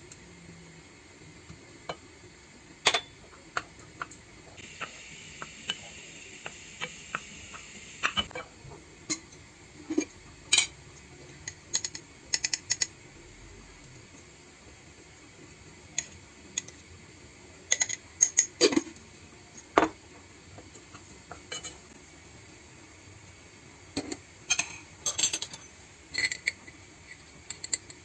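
Scattered clinks and knocks of dishes and cutlery being handled, some in quick clusters, with a steady hiss lasting a few seconds near the start.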